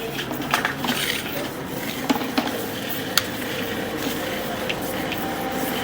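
Sewer inspection camera being pushed back into a drain line: scattered clicks, knocks and scraping over a steady wet noise.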